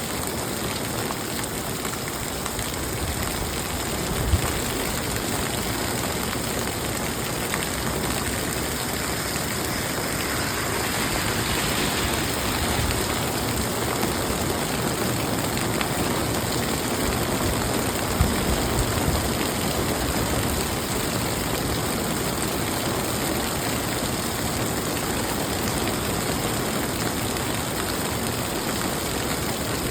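Steady rain falling, an even hiss of drops on surfaces, with a brief dull knock about four seconds in and another around eighteen seconds.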